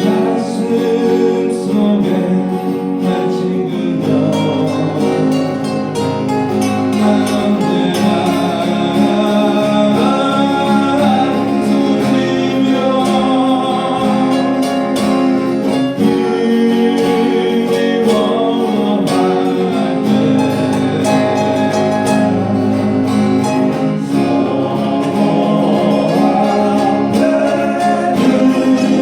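Acoustic guitar strumming chords under a sung melody.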